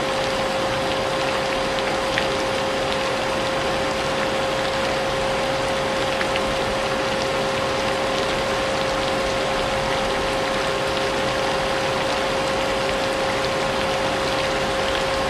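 Vacuum cleaner running steadily with a constant hum, blended with a continuous hiss of rain and a few faint drop ticks.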